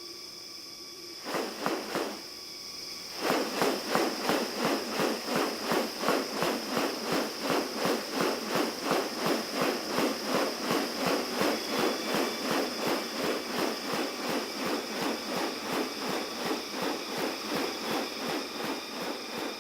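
Insects droning steadily at a high pitch. About three seconds in, a loud rhythmic pulsing joins, roughly three pulses a second, easing a little toward the end.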